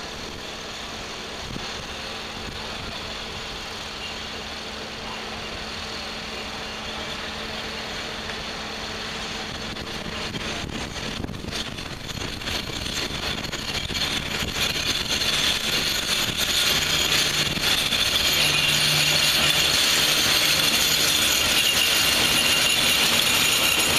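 ET22 electric freight locomotive hauling a train of covered wagons, approaching and then passing close by with a steady hum. It grows louder through the middle and is loudest as the locomotive and the first wagons roll past.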